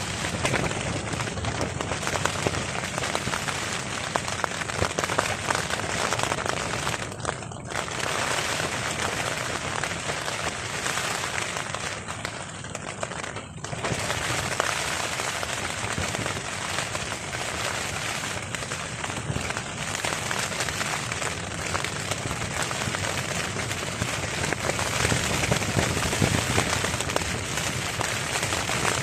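Heavy rain drumming on a tarp, a dense steady crackle of drops that briefly lets up twice.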